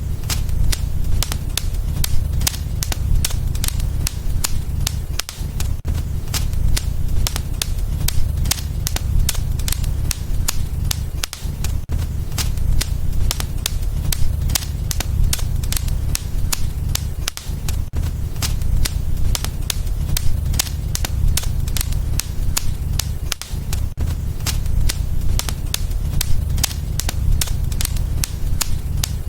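Wood fire burning in a fireplace, crackling and popping constantly over a steady low rumble of the flames.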